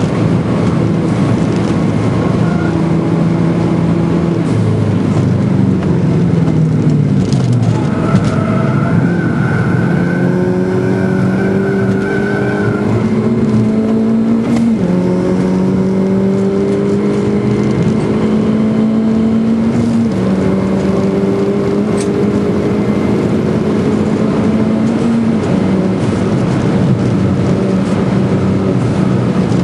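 The Schäfer Mini Clubsport's engine, heard from inside the cabin, working hard round the track with steady tyre and road noise under it. The engine note falls in steps early on as the car slows, then climbs slowly through the gears, dropping sharply at upshifts about halfway and two-thirds of the way through.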